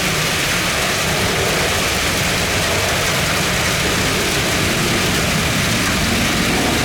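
Steady rush of heavy rain with a low, even rumble of airliner jet engines underneath.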